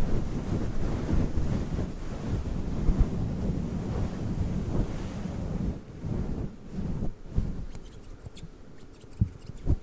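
A fluffy furry microphone windscreen rubbed and squeezed against the microphone, making a low, muffled, wind-like rustling rumble. It is steady for about the first six seconds, then comes in short strokes.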